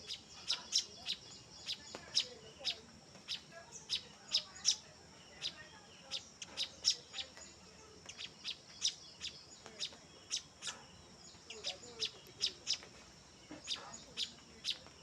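House sparrows chirping: a steady series of short, sharp, high chirps, two to three a second.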